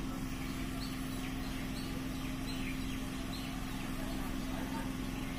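Electric multiple-unit local train standing at the platform, humming steadily with a low rumble underneath. Birds chirp briefly several times.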